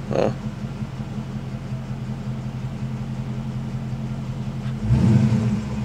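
Dodge Charger Scat Pack's 6.4-litre HEMI V8 idling steadily, heard from inside the cabin, then given one short rev about five seconds in. The owner thinks the rev didn't sound too good.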